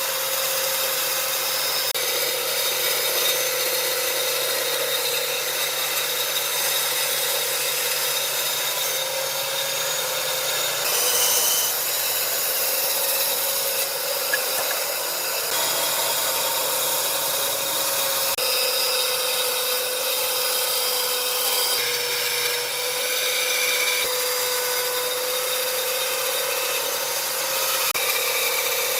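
A power tool running steadily on wood, a constant hum over a hiss, with the sound changing abruptly a few times.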